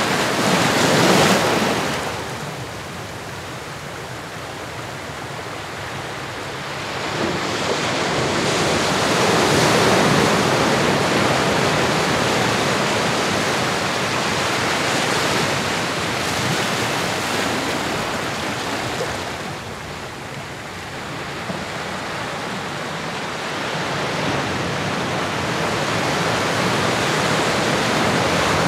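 Ocean surf: waves washing in and drawing back in slow swells. They are loudest about a second in, again around ten seconds in, and towards the end, with quieter lulls between.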